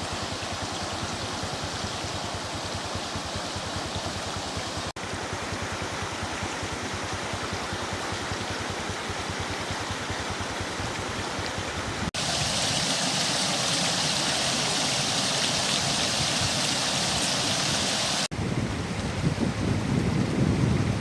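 Rushing floodwater, a steady noisy wash that changes at hard cuts about 5, 12 and 18 seconds in. It is hissier between about 12 and 18 seconds, and a low rumble joins after about 18 seconds.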